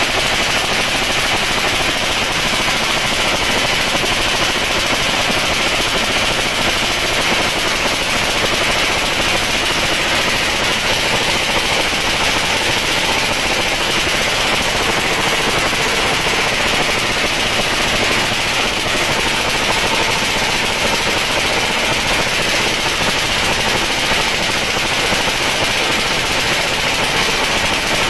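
Suzuki Satria F150 (Raider 150) motorcycle with a racing exhaust, running loud and steady with no rise or fall in pitch.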